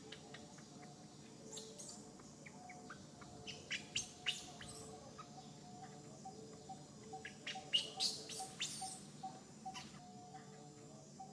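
Short, high-pitched chirping squeaks from an animal, coming in three clusters with pauses between, over a faint steady background.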